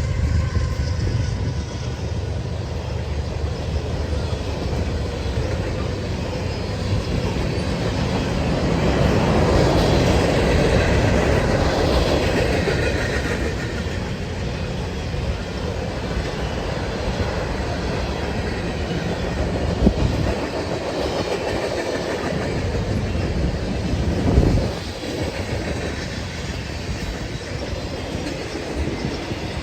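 Canadian Pacific train rolling past: a steady rumble with the clickety-clack of wheels over the rail joints and a faint high wheel squeal. Two sharp knocks come about two-thirds of the way through.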